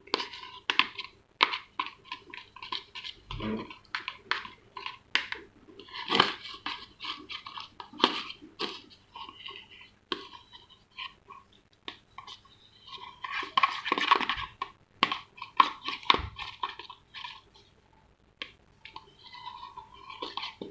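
A utensil stirring a glue mixture in a container, with repeated irregular scraping and clicking against its sides.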